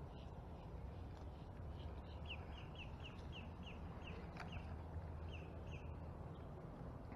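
A bird calling a quick run of short downslurred chirps, about three a second, over a steady low rumble.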